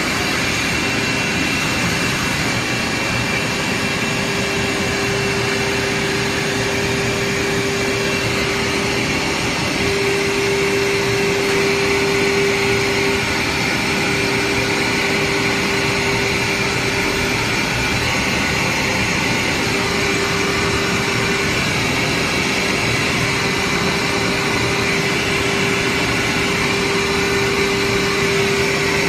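CNC router running: a steady whine from the spindle over a constant rushing noise, going on without a break.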